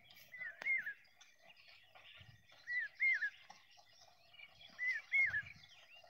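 A bird calling: a short phrase of two or three arched, whistled notes, repeated three times about two seconds apart, over faint rural background noise.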